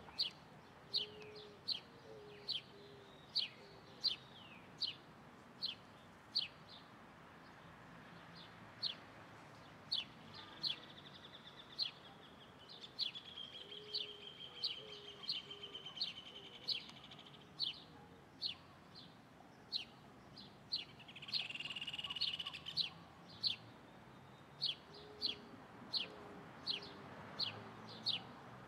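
A small bird calling a sharp, high chirp over and over, a little more than once a second. Twice it breaks into a longer buzzy trill, once near the middle and again a few seconds later. Soft low calls sound now and then underneath.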